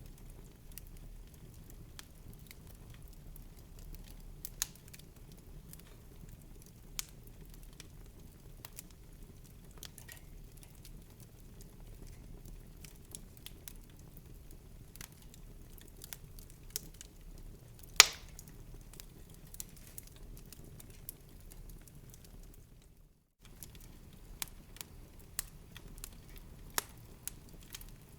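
Wood fire crackling in a fireplace: irregular small pops and snaps over a low hiss, with one much louder pop about two-thirds of the way through. A split-second silent gap follows a few seconds later.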